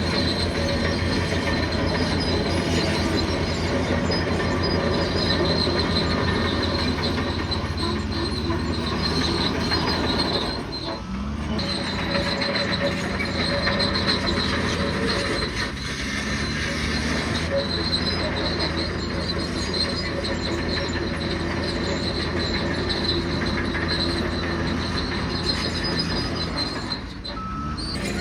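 Bulldozer at work: its diesel engine and steel crawler tracks running steadily, with brief dips in loudness about eleven seconds in and again near the end.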